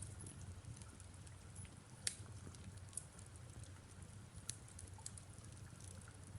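Fireplace crackling softly with scattered sharp pops, the loudest about two seconds in, over a faint, steady patter of rain.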